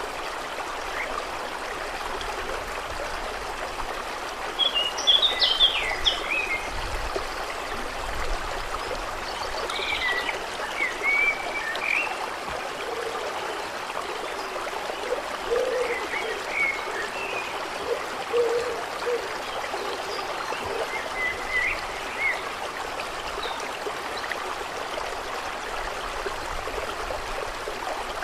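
Steady trickling of running water, with birds chirping in short phrases every few seconds and a few lower calls in the middle.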